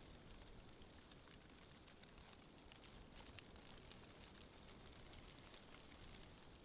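Faint, steady wind ambience, a soft even hiss, with a few light scattered ticks about three seconds in.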